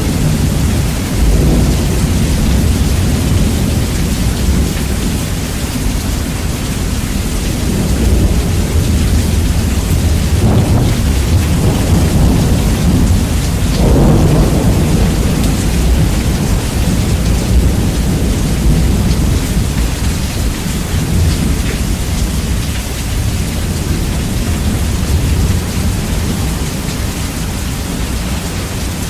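Steady heavy rain with rolling thunder, bass-boosted so a loud, deep rumble dominates. Thunder swells up about a third of the way in and again around the middle.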